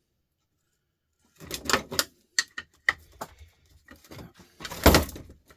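After a moment of silence, a run of irregular clicks and clatters as a tool works against the plastic casing of an old electric sander while its screws are being undone. The loudest is a single sharp knock near the end.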